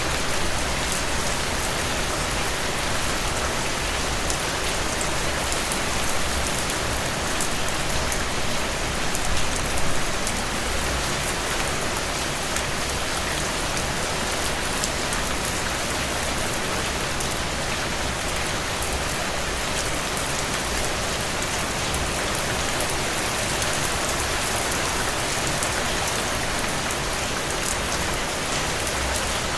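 Steady rainfall: a dense, even hiss of rain with many small drop ticks, swelling slightly about nine to ten seconds in.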